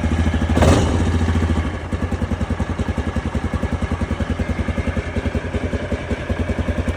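Yamaha Grizzly 660 ATV's single-cylinder four-stroke engine running, with a sharp crack about a second in. It then drops to an even, steadily pulsing idle.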